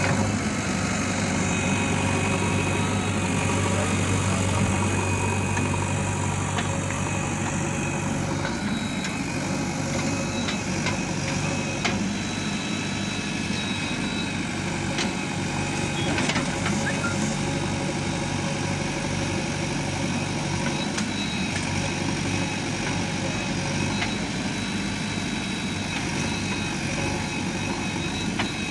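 Diesel engines of a JCB 3DX Xtra backhoe loader and tractors running steadily while the backhoe works, with scattered short knocks. The low engine drone eases a little about eight seconds in.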